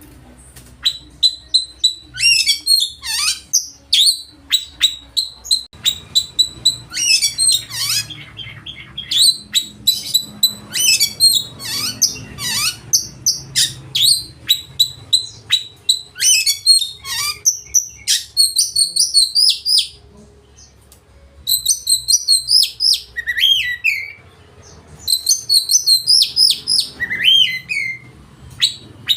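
Oriental magpie-robin (kacer) singing loudly in full song: a fast, nearly unbroken run of varied whistles, trills and sweeping notes, with two short pauses about two-thirds of the way in.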